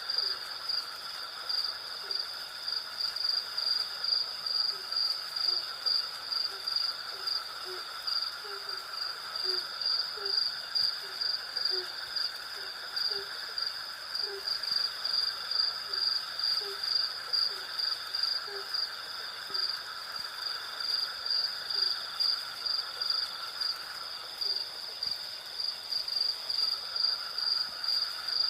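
Night insect chorus of crickets, a steady pulsing chirr with a lower insect drone beneath it. Through most of it a short, low hooting call repeats about once a second, then stops a few seconds before the end.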